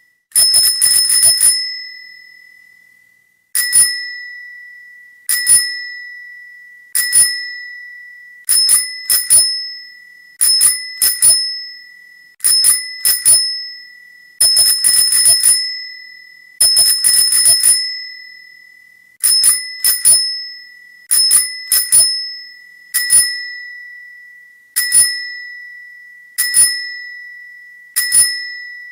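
Bicycle bell rung over and over, in single and double rings about every one and a half to two seconds, with a few bursts of quick rings. Each ring is a clear bright tone that dies away over a second or two.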